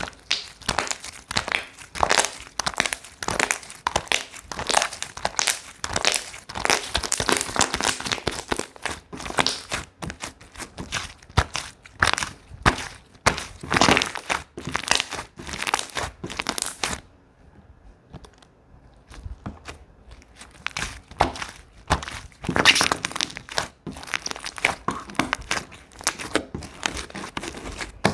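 Hands squeezing and working slime, making a fast, close run of crackling clicks and pops that pauses for a few seconds just past the middle, then starts again.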